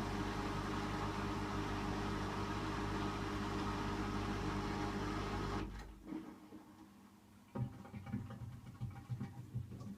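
Hotpoint washing machine in its final 600 rpm spin: a steady motor hum and whine that winds down and stops a little over halfway through, as the spin ends. It is followed by a few irregular low knocks and rattles.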